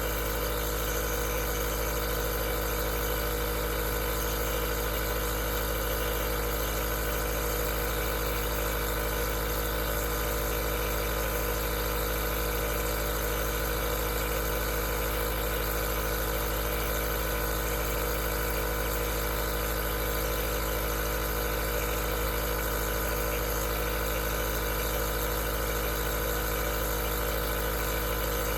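Aerosol nebulizer's compressor running steadily: an even hum with a hiss, unchanging throughout.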